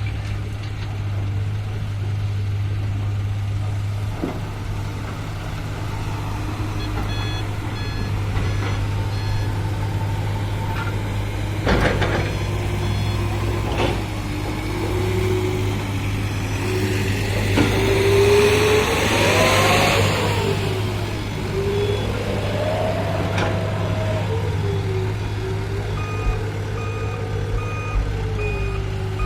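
Diesel heavy equipment running steadily, with an engine's pitch rising and falling through the middle under load, a few knocks and a burst of rushing noise about two-thirds through. A dump truck's reversing alarm beeps steadily near the end, and another beeper sounds briefly early on.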